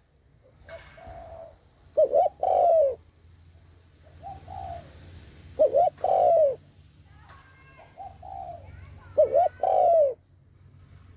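Spotted dove cooing: three loud phrases about three and a half seconds apart, each a short note followed by a longer arched coo, with softer coos in between. A low steady hum runs underneath.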